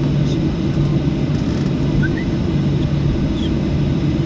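Steady low cabin rumble of a Boeing 737-800 on the ground after landing, its CFM56 engines at low power with a steady hum under the airflow noise, heard from a window seat inside the cabin. A couple of faint short high chirps come about two seconds in.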